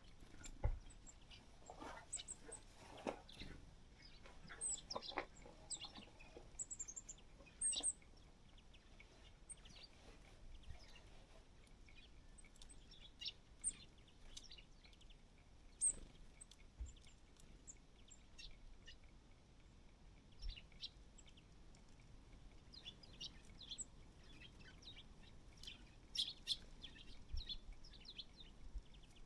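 Small feeder birds chirping: short, high calls come on and off, busiest in the first few seconds and again near the end. A few faint low thumps are mixed in.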